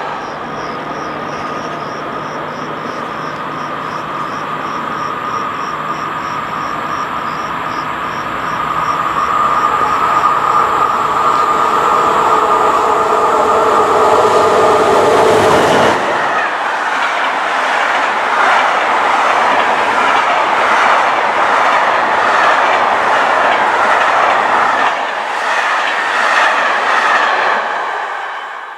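A passenger train hauled by an SNCF electric locomotive approaches with a growing rush and hum, and the locomotive passes about sixteen seconds in. The coaches then roll by with quick, regular clicking of wheels over rail joints, fading away at the very end.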